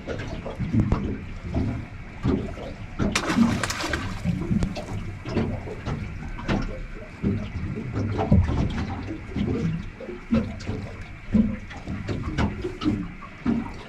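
Water sloshing and splashing at the side of a boat, in irregular surges, with a louder splash about three seconds in.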